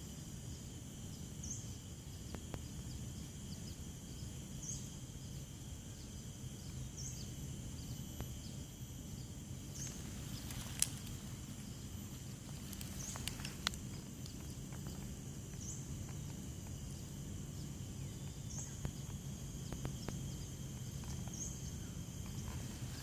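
Outdoor forest ambience: a steady high-pitched insect drone, with a short chirp repeating every two to three seconds and a low hum beneath. Two sharp clicks stand out around the middle.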